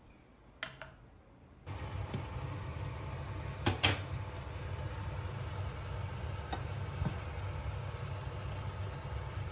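Food sizzling in a pan over a steady hum, starting suddenly just under two seconds in, with a sharp clatter of utensils about two seconds later and a few lighter clicks after it.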